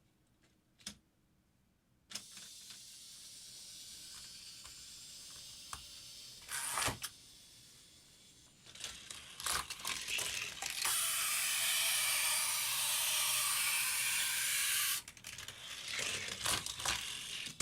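A Hot Wheels die-cast car running through a plastic track layout: a steady rolling hiss, a short clatter, then clicks and rattles of the car on the track. About halfway through, a louder steady rushing noise lasts for about four seconds.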